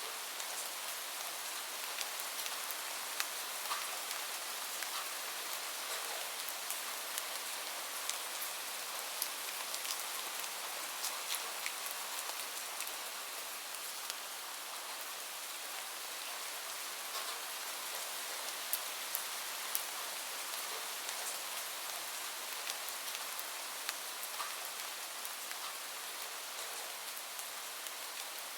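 Steady rain mixed with a crackling wood fire: an even hiss of rainfall sprinkled with frequent small, sharp crackles.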